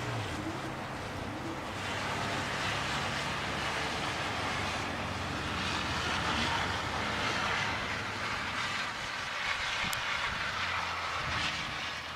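Blizzard wind blowing in gusts, swelling and easing every second or two, with a low steady mechanical hum beneath it.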